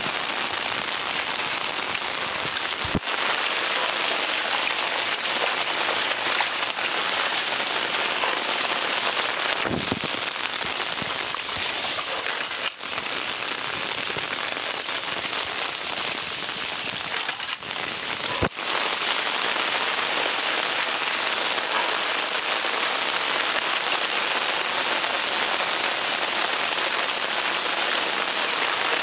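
Heavy rainstorm downpour: a steady, dense hiss of rain falling on the ground, puddles and garden plants.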